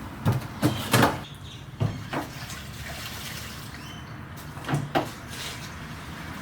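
A series of short, sharp knocks and clanks from hand work on the truck, several in quick succession in the first couple of seconds and two more close together near the end.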